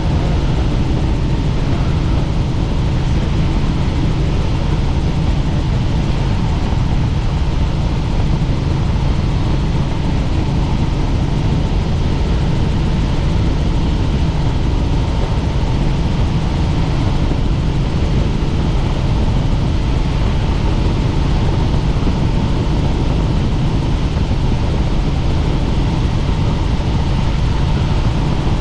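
Helicopter in flight, its engine and rotor running steadily: a constant low drone with a faint steady whine above it.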